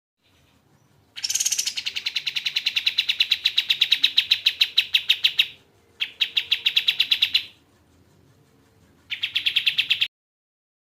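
Kapas tembak songbird giving a rapid, evenly repeated chattering trill of about ten notes a second, in three bursts: a long one of about four seconds, a shorter one, then a brief one near the end.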